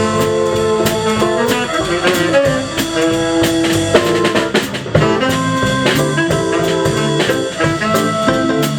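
Jazz band playing: brass instruments holding and moving between notes over a drum kit keeping time with frequent rimshots.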